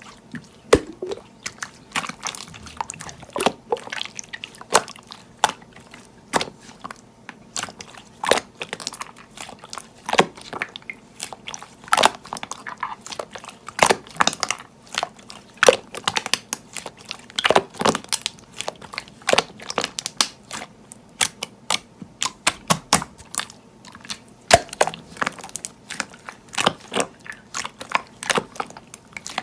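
Close-up crunchy chewing and biting: a dense, irregular run of sharp, crisp crunches.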